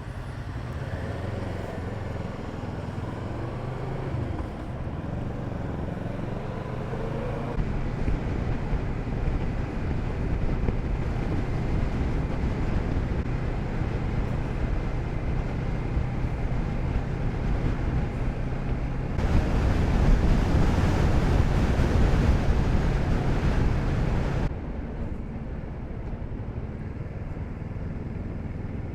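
Kawasaki Z650RS parallel-twin motorcycle engine running steadily on the move, with wind rushing over the rider's microphone. It grows louder for about five seconds in the second half, then drops back.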